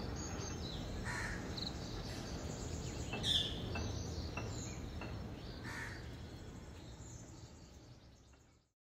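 Occasional short bird calls over a steady background noise, the whole fading out near the end.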